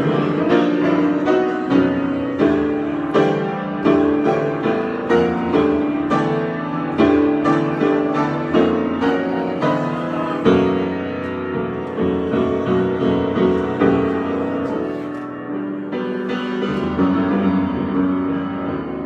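Solo piano improvisation: chords and melody notes struck in an unhurried, fairly even pulse, growing softer over the last few seconds.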